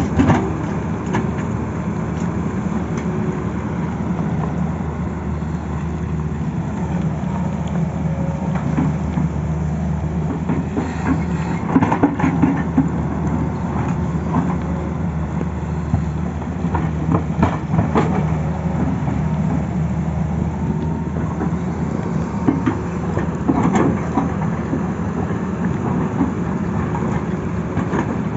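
Tata Hitachi excavator's diesel engine running steadily under work, with scattered knocks and clatter, louder around the middle and near the end.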